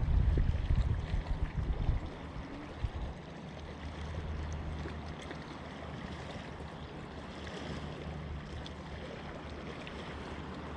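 Wind buffeting the microphone for about the first two seconds, then a steady wash of water at the rocky shoreline.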